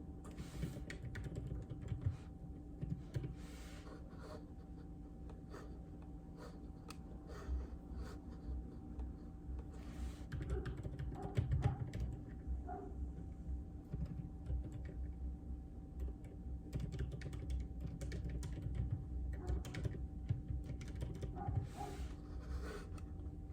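Typing on a JJK84 mechanical keyboard with Outemu Silent Peach linear switches: a run of soft, irregular keystroke clicks over a steady low hum.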